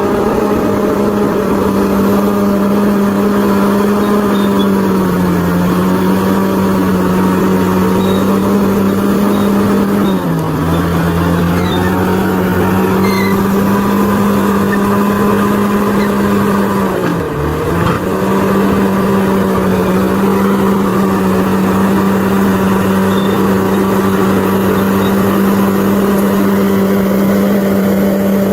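Bulldozer's diesel engine running steadily at high revs, its pitch sagging briefly three times, about five, ten and seventeen seconds in, before recovering.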